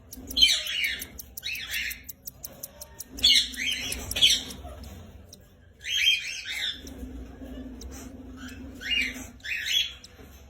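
Cockatiels squawking: short, harsh calls, often in pairs, repeated about every second or two with brief pauses between them.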